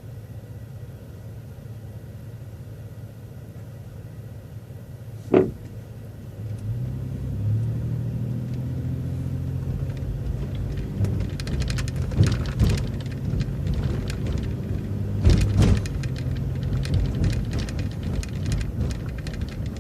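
City transit bus running low and steady, then pulling away and picking up speed, its engine note rising. There is a sharp knock about five seconds in, and rattles and bumps from the bus further on.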